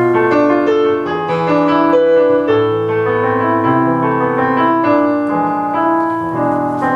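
Instrumental introduction to a slow song on an electronic keyboard: a melody over held chords, starting suddenly.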